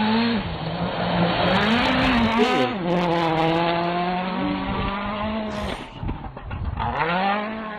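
Rally car engine running at high revs, its pitch dropping and climbing again with the throttle, over heavy tyre noise.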